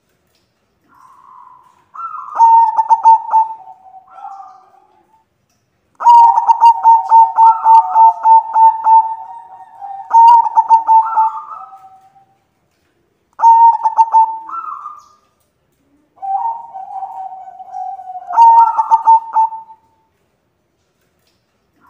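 Zebra dove (white perkutut) cooing in four bouts. Each bout is a rapid run of staccato notes near one pitch, with a rising note, and the bouts are separated by short pauses.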